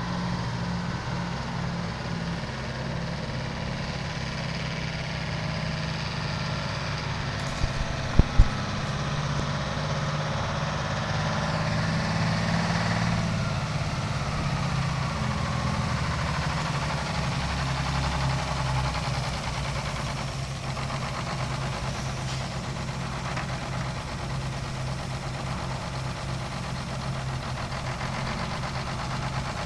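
Engine idling steadily, with two or three sharp knocks about eight seconds in.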